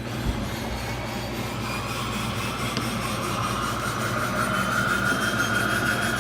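Pratt & Whitney PT6A turboprop engines of a DHC-6 Twin Otter running, heard from the cockpit. Under a steady low hum, a turbine whine slowly rises in pitch and grows louder.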